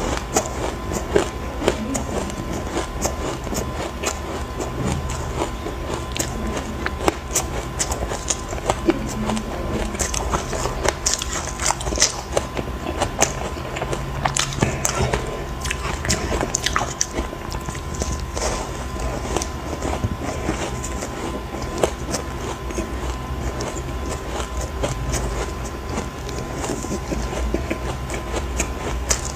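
Close-up crunching and chewing of ice chunks dusted with matcha powder: a continuous run of irregular sharp cracks and crackles, with a faint steady high tone underneath.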